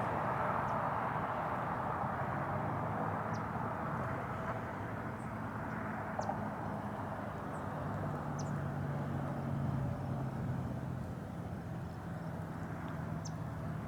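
Steady hum of distant engines with a low drone that shifts slightly in pitch, and a few faint short high chirps scattered through it.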